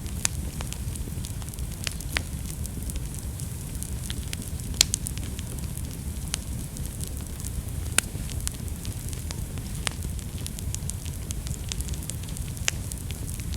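Fire burning in a fireplace: a steady low rumble of the flames with scattered sharp crackles and pops, the loudest snaps about five and eight seconds in.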